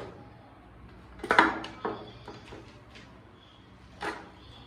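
Kitchen handling clatter: items such as containers or dishes are knocked and set down. There is a cluster of sharp knocks about a second and a half in, another just after, and a single knock near the end.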